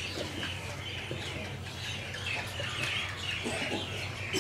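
Birds chirping, a dense run of short high calls one after another, over a low steady hum.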